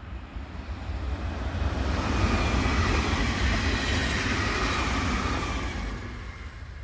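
ODEG Siemens Desiro HC electric multiple unit passing at speed: its running noise swells from about a second in, stays loud through the middle and fades near the end as the train goes by.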